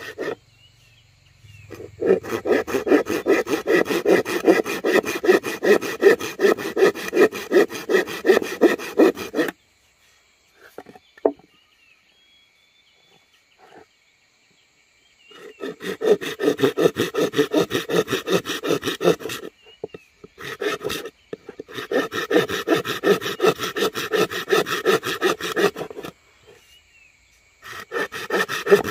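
Hand saw cutting wood in fast back-and-forth strokes, in several spells broken by pauses of a few seconds.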